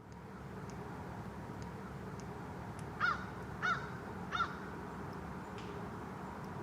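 A bird giving three short calls in quick succession about three seconds in, over a steady background rush.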